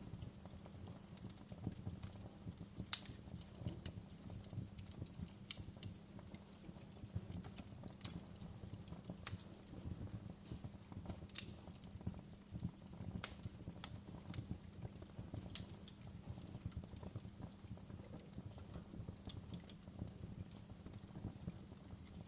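Wood fire crackling: irregular sharp pops and snaps, the loudest about three seconds in, over a steady low rumble of the flames.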